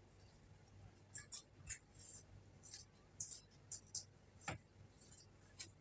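Faint, irregular crisp clicks and crunches of someone eating, about a dozen in all, with a sharper click about four and a half seconds in.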